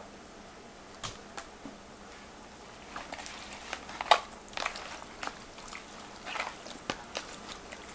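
Raw seasoned chicken pieces being mixed and handled by hand: irregular wet squishing with light knocks, the loudest just after four seconds in.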